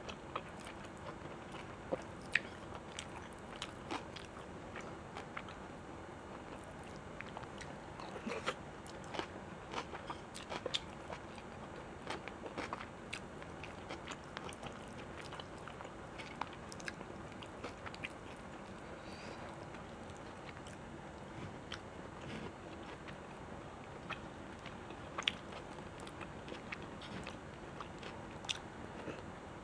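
Close-miked chewing and biting of food, with irregular wet clicks and small crunches over a steady low hiss.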